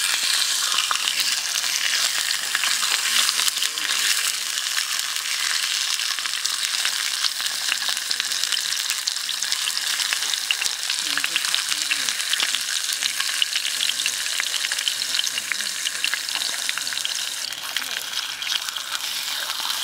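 Pig liver sizzling in hot oil in a rectangular metal pan over an open fire, a steady dense hiss of fine crackles that eases slightly near the end.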